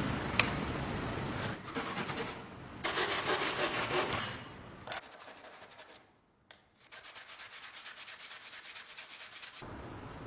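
Rapid repeated scraping strokes across a surface, in several bouts, with a brief near-silent pause about six seconds in.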